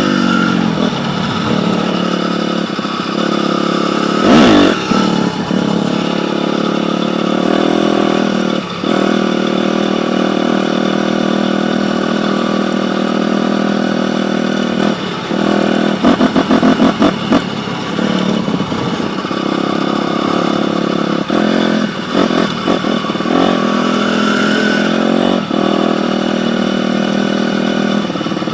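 Dirt bike engine running steadily, with a short throttle blip about four seconds in and a choppy burst of revs around the middle.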